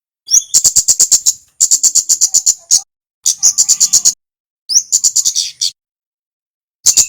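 Male kemade (kemlade) bird singing in five short, high-pitched, rapid chattering phrases, each opening with a quick rising note and then a fast run of pulsed notes at about eight a second, with brief silences between phrases.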